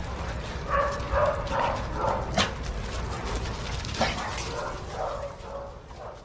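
Several dogs playing together, giving runs of short yips and barks, with a sharp click about two and a half seconds in and a steady low rumble underneath.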